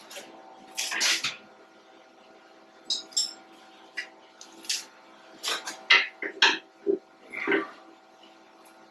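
Short metallic clinks and clanks of steel tools and parts being handled, about a dozen irregular hits with a quick cluster a little past the middle, over a faint steady hum.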